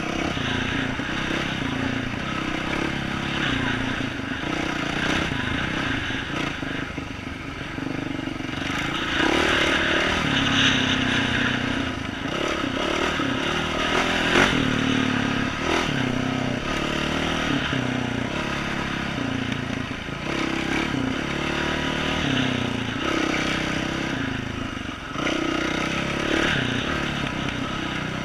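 2012 Yamaha YZ450F dirt bike's single-cylinder four-stroke engine with an aftermarket exhaust, revving up and down over and over as it is ridden, louder for a couple of seconds about nine seconds in.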